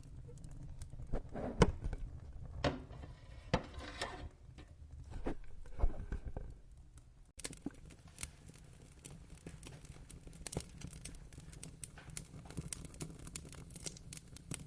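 Wood fire crackling in a fireplace: sharp pops and snaps over a low steady rumble. The louder pops come in the first half, then the crackle turns finer and denser.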